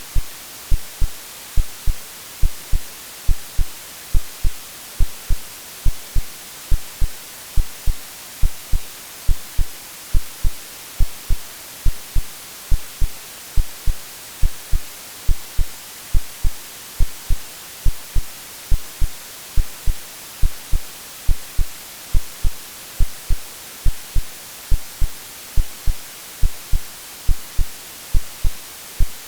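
Synthesized heartbeat: low double thumps (lub-dub) repeating evenly about once a second over a steady white-noise hiss.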